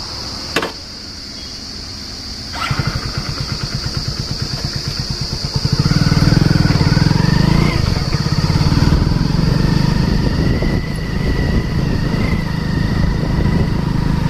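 Hero Splendor Plus single-cylinder four-stroke motorcycle engine starting about two and a half seconds in and ticking over at idle, then pulling away louder with a rising note about six seconds in and running steadily under way. Crickets keep up a steady high chirring through the first part.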